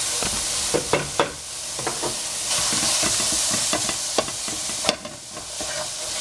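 Sliced capsicum strips sizzling in a nonstick frying pan, stirred with a wooden spatula. Sharp taps of the spatula against the pan, three close together about a second in and a couple more near the end, over the steady sizzle.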